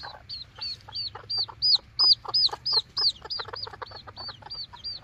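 A bird chirping a rapid, even run of high arched notes, about five a second, louder in the middle, over short clucks of Serama bantam chickens.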